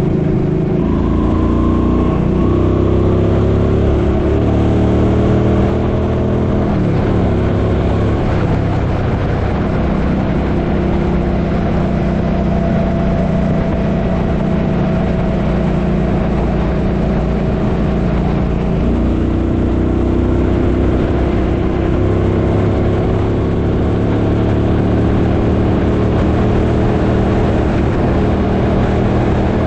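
Suzuki Boulevard M50's 805 cc V-twin engine running while riding, its pitch climbing during the first few seconds, dropping about seven seconds in, holding steady, then climbing again in the last third. Wind noise rushes over the microphone throughout.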